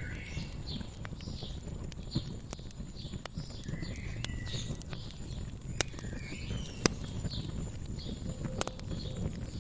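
Wood fire crackling, with a steady low rumble of flame and scattered sharp pops, the two loudest about six and seven seconds in. Small birds chirp repeatedly over it, with a couple of short warbled phrases.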